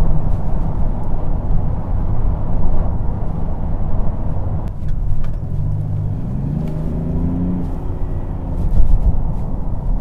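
Mercedes-Benz GLS 400d's straight-six diesel engine and road rumble as the SUV drives in sport mode, with the engine note rising once partway through as it accelerates.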